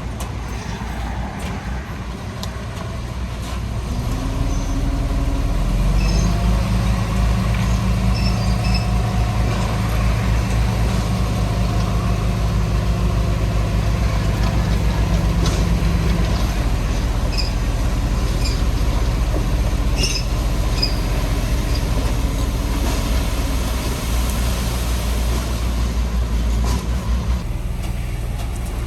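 Heavy diesel earthmoving machinery running steadily under load. The engine note strengthens and rises a few seconds in, with scattered faint high squeaks over it.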